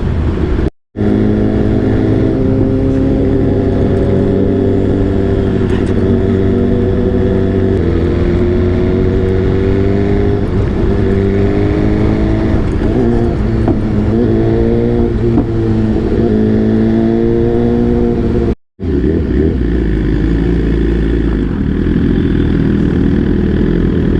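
Superbike engine running, its pitch rising and falling as the revs change. The sound cuts out briefly twice, about a second in and near the end.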